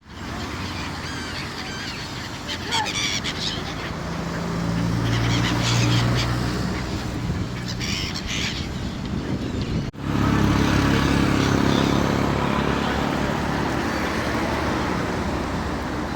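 Gulls calling in short clusters of high, wavering cries over a steady rumble of traffic. About ten seconds in the sound cuts abruptly to a louder traffic rumble.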